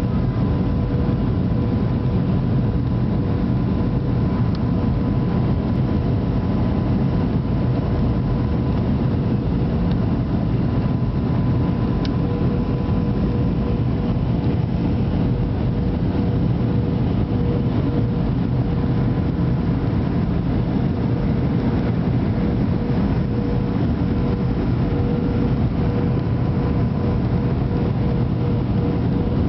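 Steady cabin noise inside a passenger airliner on its approach to land: a constant low drone of engines and airflow with a steady hum tone running through it.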